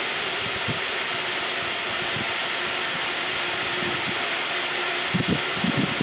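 Liquid-propellant rocket engine on test, heard as a steady, even rushing hiss with a faint hum under it.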